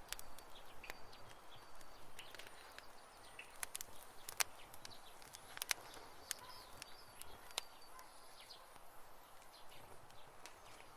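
Wood campfire crackling: irregular sharp pops and snaps over a soft steady hiss, with the loudest pops about four and a half and five and a half seconds in.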